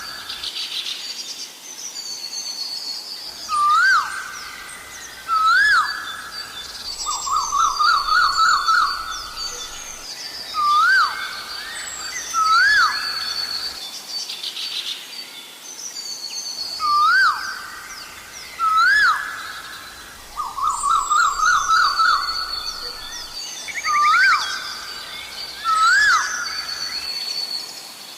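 Asian koel calling: pairs of loud rising whistled notes, repeated every several seconds, with a faster run of short notes twice. Other small birds chirp higher and softer throughout.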